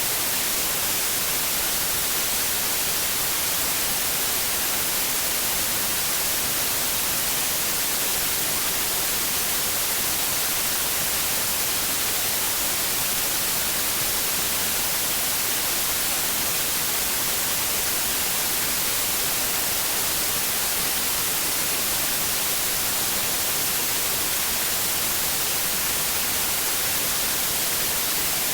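Steady white noise: an even, unchanging hiss, brightest in the high end, played as a sleep aid for babies.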